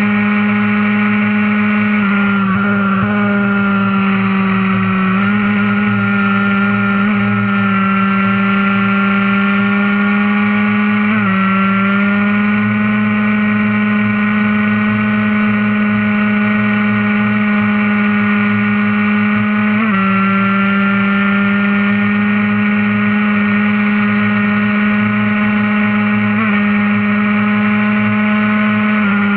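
Fully modified Honda NSR50's 50 cc two-stroke single running hard at high, nearly steady revs, with a few brief small dips and steps in pitch.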